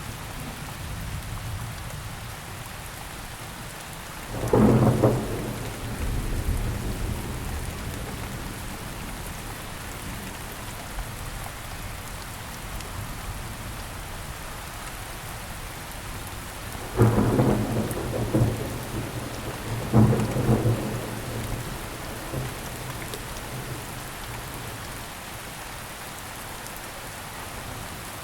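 Steady rain falling in a thunderstorm, with three rolls of thunder. The first comes about four seconds in, and two more come close together past the halfway mark; each dies away in a low rumble.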